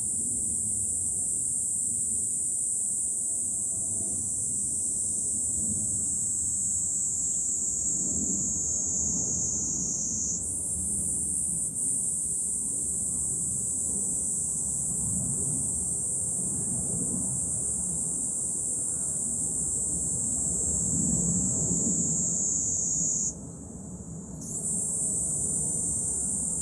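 A chorus of cicadas shrilling steadily and loudly, stepping up in strength about ten seconds in and cutting out for about a second near the end before starting again. A low rumble of wind or distant city lies beneath.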